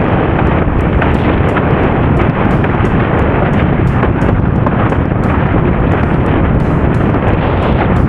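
Loud, steady wind noise on the camera microphone of a windsurfer sailing fast in strong wind, with many short crackles through it.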